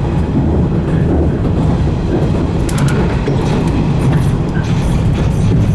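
115 series electric train running, heard from inside the leading car: a steady rumble of wheels and motors, with a few sharp clicks from about three seconds in.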